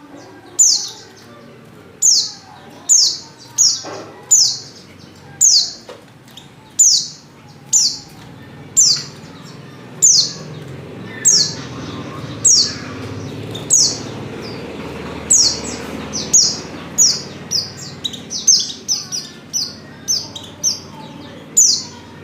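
Pleci (white-eye) calling: a sharp, high chirp that slides downward, repeated about once a second, coming in quicker runs near the end. Presented as a female in breeding condition calling to males.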